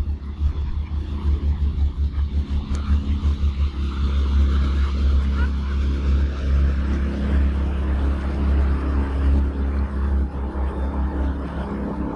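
Steady, loud low rumble of a canal tour boat's motor.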